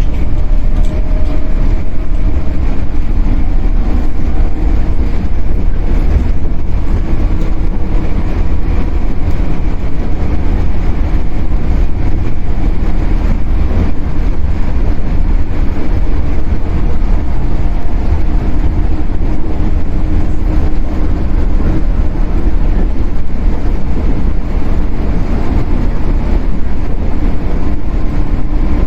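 Shinano Railway 115-series electric train running, heard from inside the KuMoHa 115 motor car. A loud, steady rumble of wheels on rail and running gear, with faint steady tones above it.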